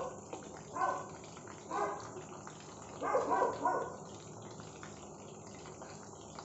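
Mince kababs shallow-frying in hot oil with a steady sizzle as they are turned with two metal spatulas. Several short pitched calls sound in the background about a second apart, with a quick cluster of three between three and four seconds in.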